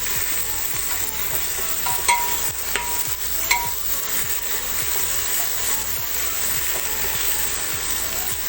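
Chopped onions with ginger-garlic paste sizzling in hot oil in a pan, with three ringing knocks of a utensil against the pan about two to three and a half seconds in.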